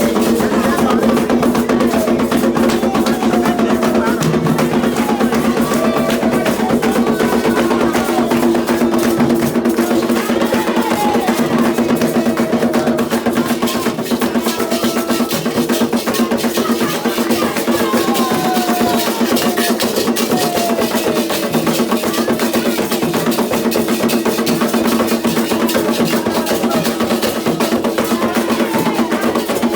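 Candomblé ritual drumming: atabaque hand drums played in a fast, steady rhythm, with voices singing over them.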